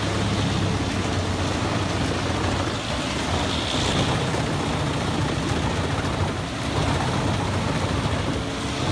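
Large heavy-duty wood chipper running under load, its diesel engine a steady low hum beneath a dense, even grinding and shredding noise as wood waste is fed through.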